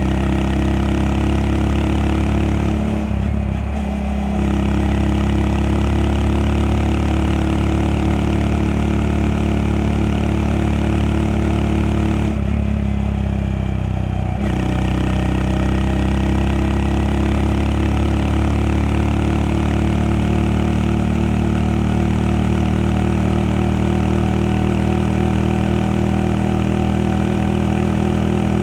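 Honda Monkey 125's single-cylinder four-stroke engine running steadily under way, its note dipping briefly twice: about three seconds in and again around twelve seconds in.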